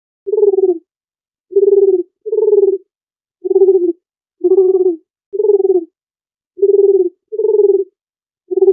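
Dove cooing: a series of about nine short, low coos of about half a second each, repeated at a steady pitch, starting just after a moment of silence.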